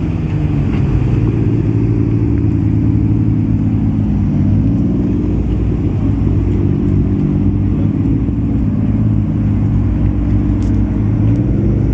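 Car engines idling with a loud, steady, low exhaust rumble, the pitch wavering slightly.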